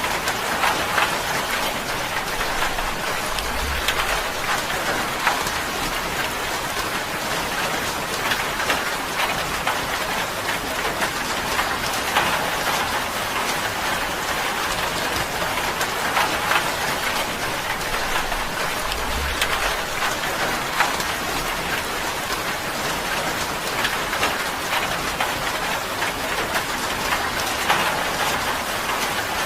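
Steady rain drumming on a tin roof, a dense patter of individual drops ticking on the metal.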